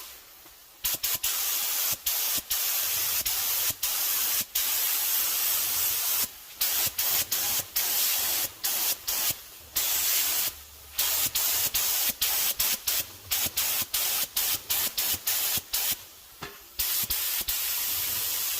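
Sealer being sprayed onto a restored steering wheel: a loud spray hiss, with the nozzle released and pressed again many times so that it comes in a long string of short bursts.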